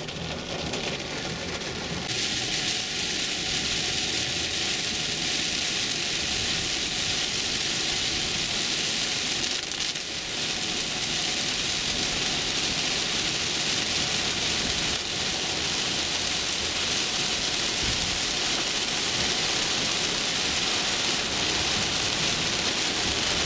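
Heavy rain pelting the roof and windshield of a car, heard from inside the cabin: a dense, steady hiss that grows louder about two seconds in.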